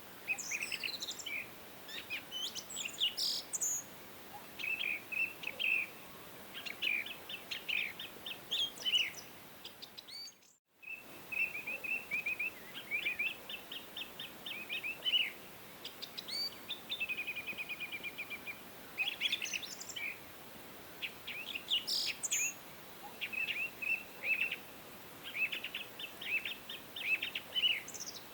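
Songbirds chirping and trilling in quick, repeated phrases over a steady faint background hiss. The sound cuts out for a split second about ten seconds in, then resumes.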